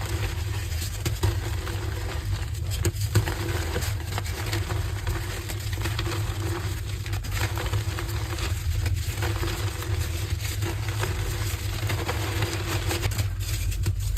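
Coloured gym chalk hearts being broken and crumbled: continuous crunching and fine crackling over a steady low hum.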